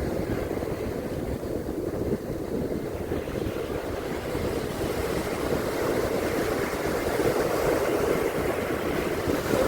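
Ocean surf washing on a beach: a steady rushing noise, with wind rumbling on the microphone.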